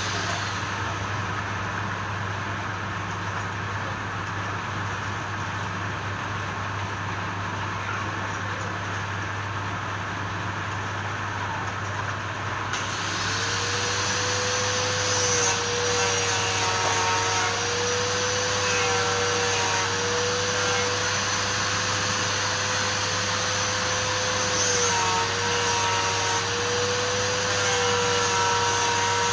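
A workshop power tool's electric motor running with a steady whine over a low hum. The whine drops out at the start, then comes back about 13 seconds in, rising to a steady pitch as the motor spins up again, and carries on to the end.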